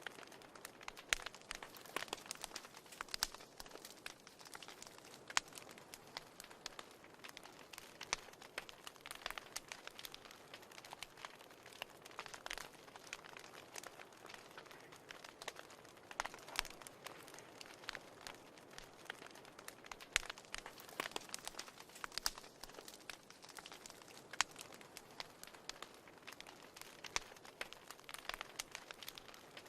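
Fire burning in a fireplace, crackling: irregular sharp snaps, several a second, some louder than others, over a soft steady hiss.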